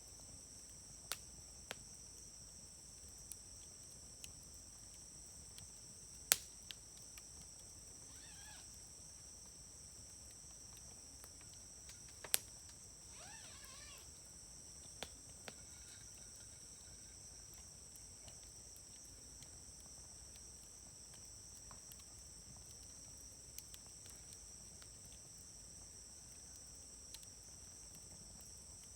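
Wood fire crackling, with sharp pops at irregular intervals, the loudest about six and twelve seconds in, over steady high insect trilling. A brief wavering whistle-like sound comes twice, about eight and thirteen seconds in.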